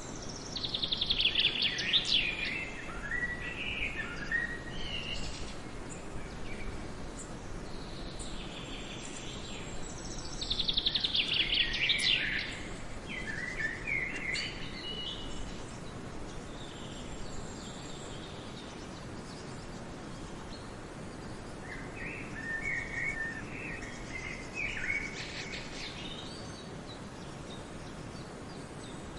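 Songbird singing the same short phrase twice, about ten seconds apart: each time a fast trill sliding down, then a few lower notes. A softer, different phrase comes about two-thirds of the way in, over a steady background hiss of outdoor ambience.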